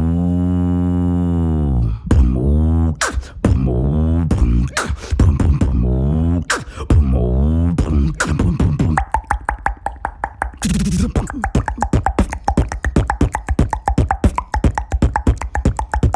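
Beatboxer's vocal percussion: a long low hummed tone that bends in pitch, then short pitched phrases cut with mouth clicks, breaking about nine seconds in into a fast run of clicking beats.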